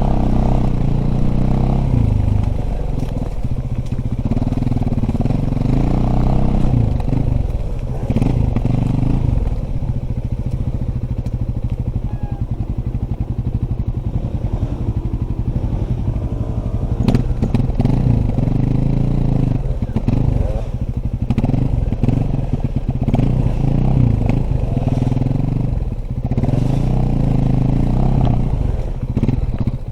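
Dirt bike engine running continuously, its pitch rising and falling as the throttle is worked.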